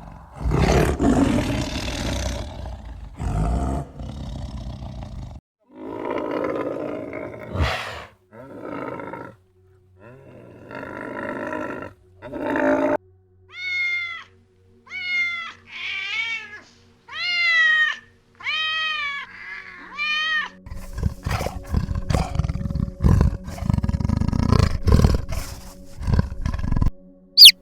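Feline calls in a sequence. First come harsh, rough growling roars in separate bursts. About halfway through, a run of about seven short meow-like cries follows, each rising and then falling in pitch. The last stretch is rapid, rough pulsing.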